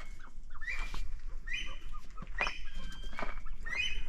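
Penned game birds calling: short high chirps repeated every half second to a second, over a steady low hum.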